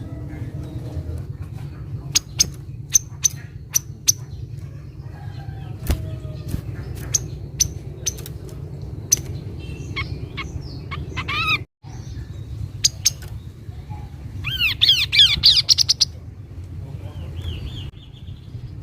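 Kaso-kaso bird calling: sharp, high single chip notes at uneven intervals, then fast trills of repeated downward-sweeping notes, the loudest about two-thirds of the way in. A steady low rumble runs underneath.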